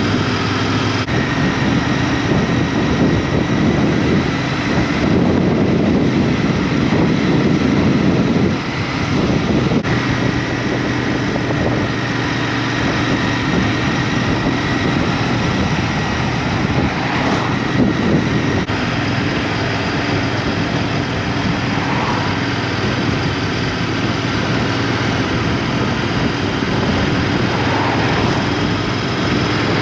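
Honda Dio scooter's small engine running steadily at road speed, with heavy wind rush over the microphone.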